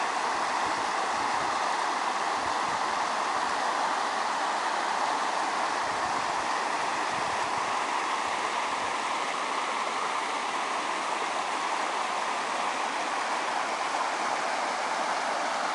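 A small river flowing, a steady rushing of running water.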